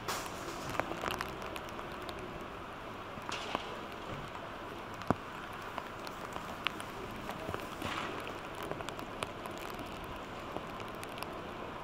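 Steady noisy outdoor ambience with scattered light taps and clicks, one sharper click about five seconds in.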